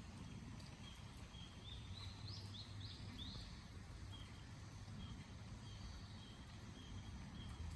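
Faint outdoor birdsong: a run of short high notes and a few quick rising chirps, over a steady low background rumble.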